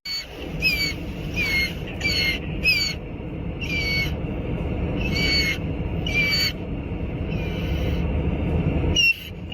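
A bird giving short, high calls that dip in pitch, about eight of them at uneven intervals, over a steady low rumble.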